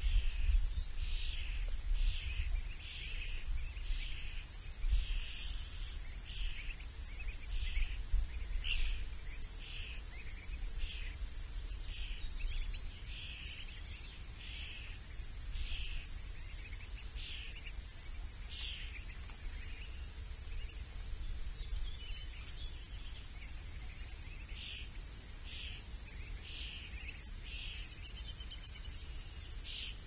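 A small bird calling over and over, a short note about one and a half times a second, over a steady low rumble. Near the end there is a brief, higher-pitched trill.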